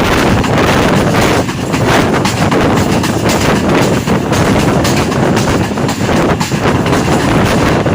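Passenger train running along the track, with a loud, steady rumble and rattle of wheels on rails.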